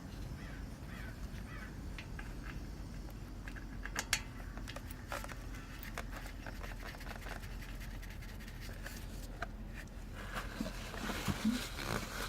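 Faint handling noise with a few scattered sharp clicks and taps as the motorcycle's oil drain plug is threaded back in by hand.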